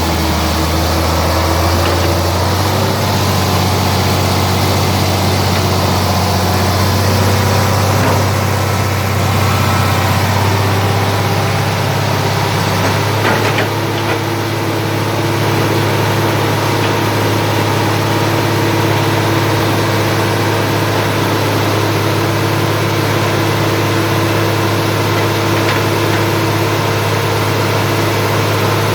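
Heavy diesel engine of a tracked construction machine running steadily at an even speed, with a brief click about halfway through.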